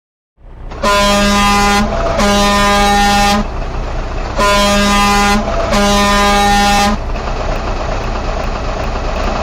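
A loud horn sounds four blasts of about a second each, in two pairs, over a steady rumbling noise that carries on after the last blast.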